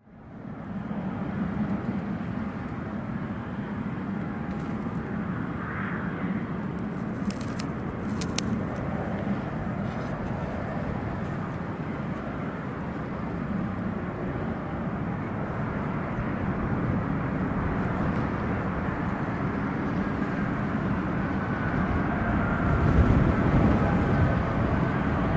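Jet airliner engines running at a distance, a steady rumble that grows a little louder near the end, with a faint rising whine.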